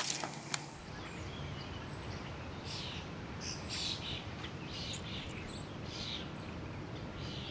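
Small birds chirping: short high calls every half second to a second over a steady background of outdoor ambience.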